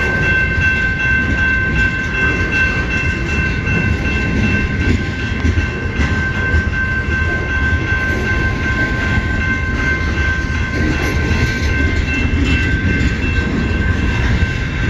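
CN freight train rolling past: a steady, loud rumble of the cars on the rails, with a few steady high-pitched tones held over it.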